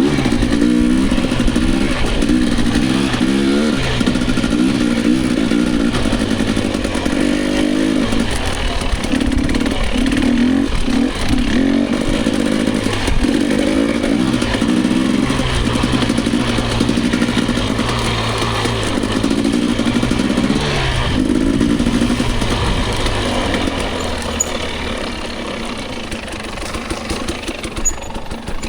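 Dirt bike engine on a trail ride, revving up and down repeatedly as the rider works the throttle and gears. It drops to lower, quieter revs about three-quarters of the way through.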